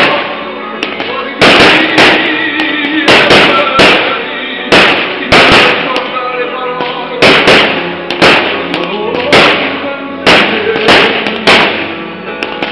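Fireworks display: about twenty sharp firework bangs, many in quick clusters of two or three, over loud accompanying music with held notes.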